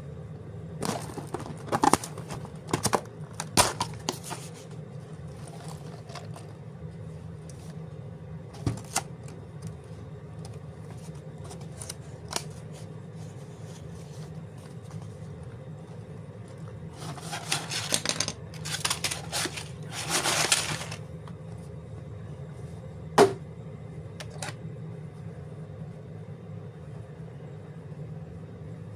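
A cardboard LEGO set box being opened by hand: a few sharp clicks and snaps of the card flaps early on, later rustling and tearing bursts of card and plastic bags, and one sharp click, over a steady low hum.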